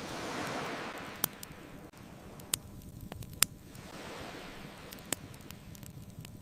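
Ocean waves washing in and receding, one surge cresting about half a second in and another building near the middle, with a wood fire's sharp pops and snaps cutting through four times.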